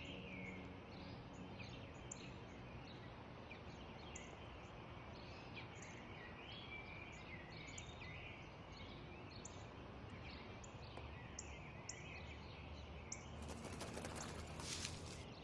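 Small birds chirping in short, scattered calls over a steady, quiet background hum. A brief rush of noise comes near the end.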